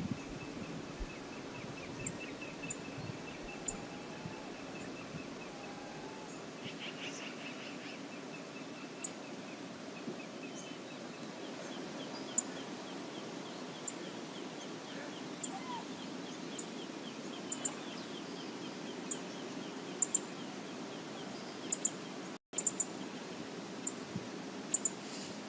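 Steady rush of river water with birds calling over it: a rapid trilling series of high notes and scattered sharp, high chips. The audio drops out for an instant near the end.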